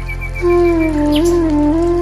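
Background music: a flute-like wind instrument plays a slow melody of long held notes with slides between them, coming in about half a second in over a steady low drone.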